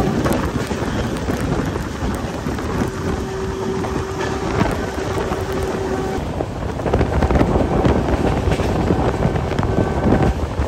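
Passenger train running, heard from on board: a steady rumble and rush with rattling from the wheels and rails, and wind on the microphone.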